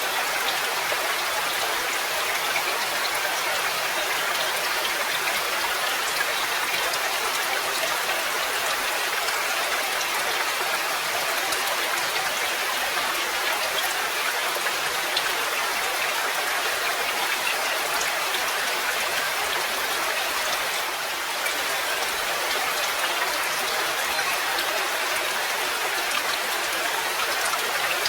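Steady rain, an even hiss of drops with no pauses or gusts.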